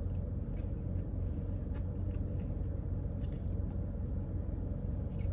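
Faint scattered clicks of chewing crispy fried chicken over a steady low rumble.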